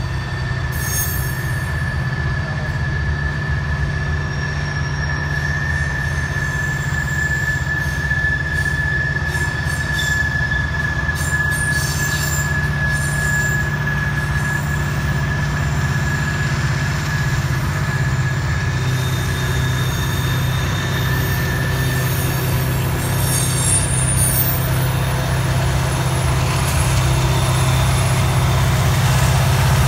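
Train rolling past, its steel wheels squealing against the rails in a long high steady tone, with shorter higher squeals, over a steady low rumble of the train. The main squeal fades out about two-thirds of the way through, and the rumble grows a little louder near the end.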